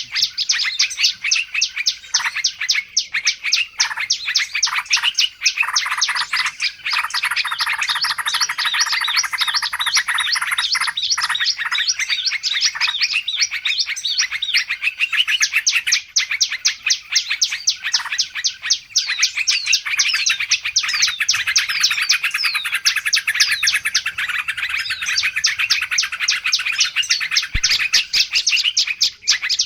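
Bird-lure recording of many small birds chattering and chirping at once. It is a dense, agitated stream of rapid high chirps and twitters that never pauses, the 'ribut' (noisy, agitated) calling used to draw other small wild birds in.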